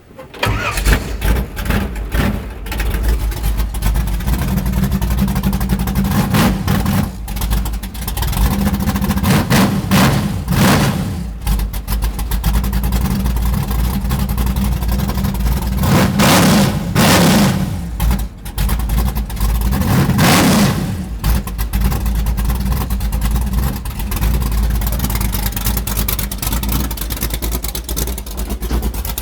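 Chevrolet Monza drag car's engine firing up from cold right at the start, then running loud and rough with several short revs of the throttle.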